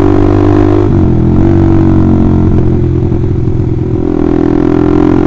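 Honda CBR150R's single-cylinder four-stroke engine running under way through a really loud aftermarket Austin Racing replica exhaust. The engine note dips and comes back up about a second in, and shifts again around four seconds in.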